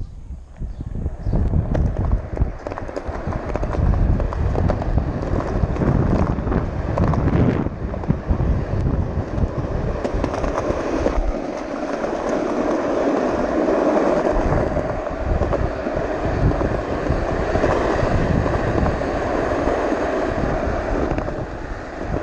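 Hard wheels rolling fast down a rough, gritty road in a steady, continuous rumble, with wind on the microphone.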